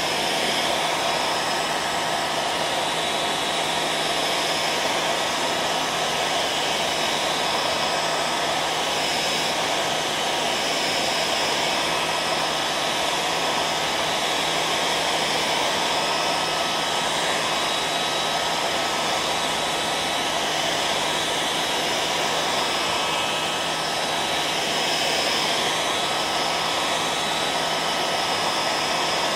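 Hair dryer running steadily on one setting: an even rush of blown air with a low motor hum and a thin steady tone through it.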